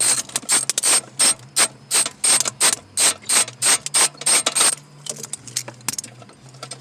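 Hand socket ratchet clicking in quick, even strokes, about three a second, as a 10 mm bolt holding the engine computer is turned out. The even clicking stops about five seconds in, giving way to lighter, irregular clicks.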